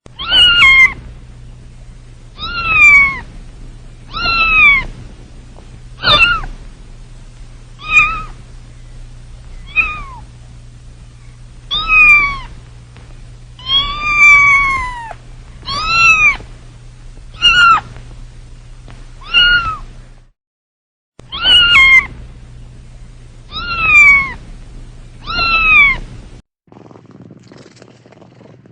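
A cat meowing over and over, about fourteen loud meows, each falling in pitch, roughly one every two seconds with a short break near the two-thirds mark.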